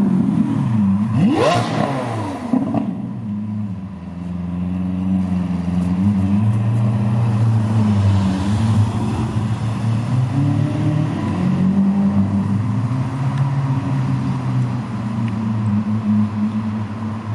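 Lamborghini Aventador SV's V12 engine and exhaust: a quick sharp rev about a second in, then the engine running steadily at low revs, its pitch rising and falling a little.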